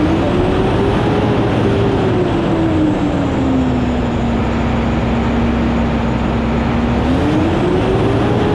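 Ashok Leyland bus engine running, with one whining tone in its sound that rises, sinks to a steady lower pitch, then rises again near the end as the engine speed changes.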